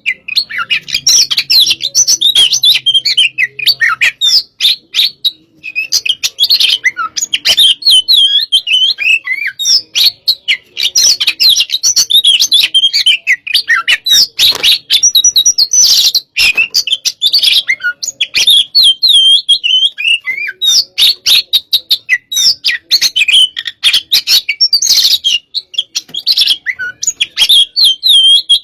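Oriental magpie-robin (kacer) singing continuously and loudly: a rapid, varied run of whistles and harsh chattering notes with only a few brief pauses.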